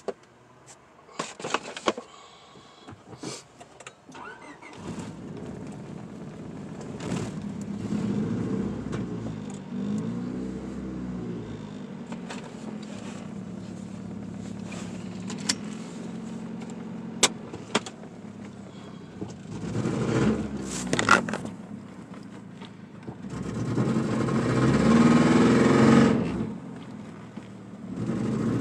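Handling clicks and rustles, then a car engine starts about five seconds in and the car pulls away, heard from inside the cabin. The revs rise and fall several times as the manual gearbox is shifted, the loudest climb coming near the end before a shift.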